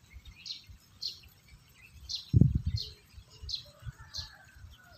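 A bird chirping over and over, one short high chirp about every two-thirds of a second. A dull low thump comes about halfway through.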